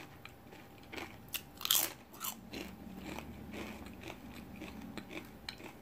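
A crisp fried tortilla chip being bitten and chewed, with irregular crunches, most of them in the first couple of seconds.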